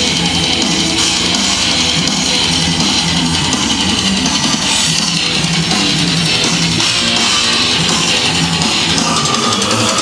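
Rock music with guitar and drums playing loudly through a motorcycle's custom stereo of Polk Audio speakers driven by a Rockford Fosgate amplifier.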